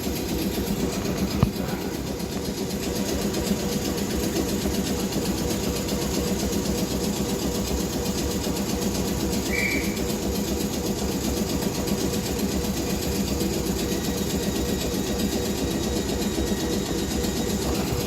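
Class 455 electric multiple unit running along the line, heard inside the carriage: a steady traction motor hum over wheel and track rumble. There is a sharp click about a second and a half in and a short high squeak near the middle.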